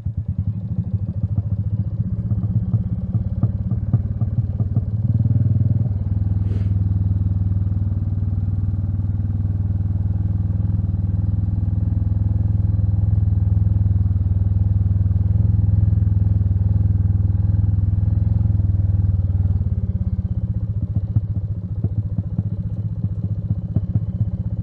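Royal Enfield Meteor 350's single-cylinder engine under way, its separate firing pulses at low speed giving way about six seconds in to a steadier, louder run as it picks up, then easing back to slower pulses near the end. A brief sharp click comes about six and a half seconds in.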